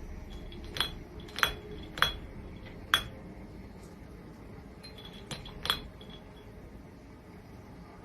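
A few sharp, glassy clinks of hard objects striking each other: four spaced strikes in the first three seconds, then two more about five and a half seconds in, some leaving a brief ring.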